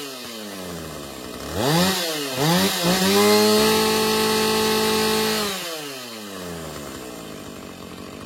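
Two-stroke chainsaw engine coming down from high revs to idle, then revved in a few quick blips about two seconds in. It is held at high revs for a couple of seconds, then falls back to a steady idle.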